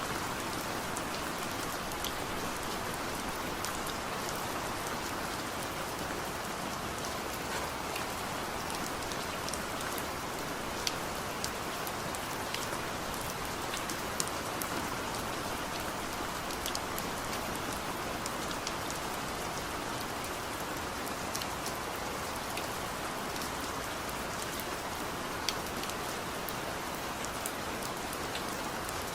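Heavy rain falling steadily, a dense even hiss with many individual drops ticking sharply through it.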